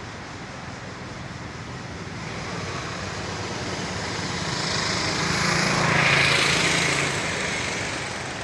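A motor vehicle passing by, its engine and tyre noise growing louder to a peak about six seconds in, then fading away.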